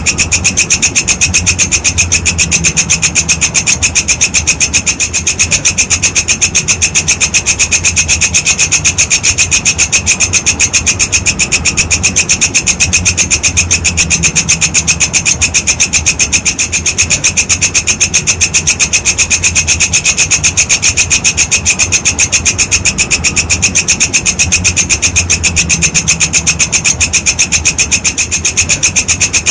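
Walang kecek insect stridulating: a continuous, rapid train of raspy chirps, even and unbroken, over a low background hum.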